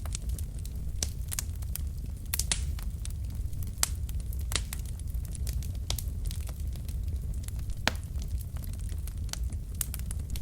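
Wood fire burning in a fireplace: irregular crackles and pops from the logs over a steady low rumble of the flames.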